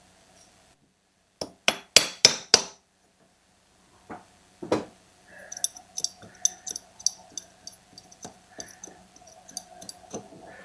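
Five sharp metal-on-metal hammer blows in quick succession about a second and a half in, knocking a Husqvarna 240 chainsaw's flywheel loose. A single thump follows, then a run of light metallic clicks and ticks.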